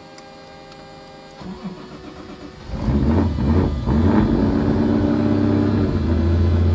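Turbocharged 2JZ-based inline-six starting up about three seconds in, through a 4-inch fender-exit exhaust. It catches roughly, then settles into a loud, steady idle. A faint steady hum comes before it.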